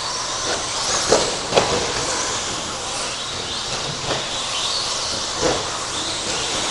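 Electric RC stadium trucks with 13.5-turn brushless motors running laps on a race track: a steady hiss of motors, drivetrains and tyres with high whines rising and falling as throttle comes on and off, and a few sharp knocks, the loudest about a second and a half in.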